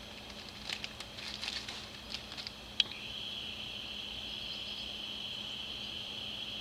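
Light clicks and scratching of small carburetor parts and a gasket being handled. A sharp click comes just under three seconds in, then a steady high-pitched noise begins and holds.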